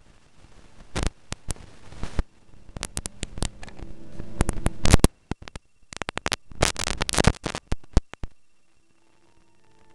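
Irregular sharp clicks and taps mixed with short scratchy rustles, coming in clusters with quieter gaps between them.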